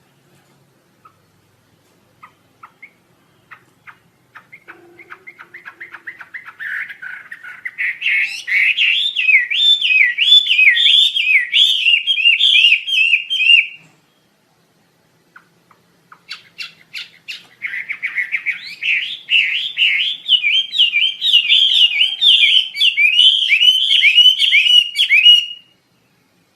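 Asian paradise flycatcher (wambi asia) singing two bouts: scattered chips speed up into a fast, loud trill of repeated rising-and-falling notes, break off for about two seconds midway, then build again into a second, longer trill that stops shortly before the end.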